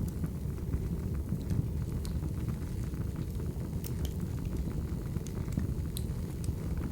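Wood fire burning: a steady low rumble of flames with scattered sharp pops and crackles from the burning logs.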